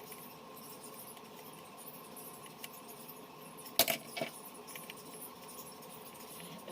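Two sharp metallic clinks close together a little past halfway, small hard objects knocking on a hard surface, over a faint steady hum with light ticking.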